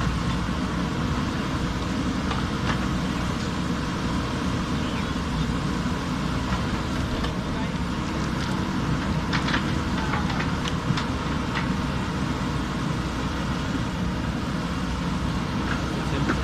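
JCB backhoe loader's diesel engine running steadily while working. A few short knocks come a little past halfway through.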